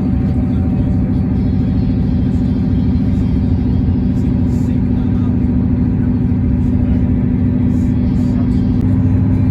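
Class 158 diesel multiple unit running, a steady low engine drone with several held tones; the tone shifts slightly near the end.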